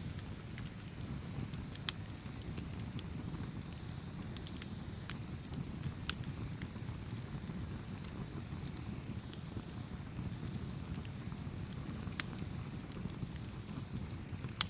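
Campfire crackling: burning wood with a steady low rumble, scattered with many small sharp pops. A louder pop comes about two seconds in, and another just before the end.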